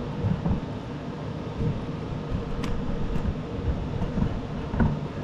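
Steady low rumble with irregular light knocks and a couple of sharp clicks from hands working on a riding mower's underside.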